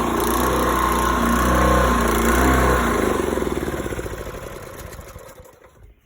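Small pressure-washer gas engine with a custom exhaust running, then shut off about three seconds in: its firing slows into separate pulses that fade and stop just before the end.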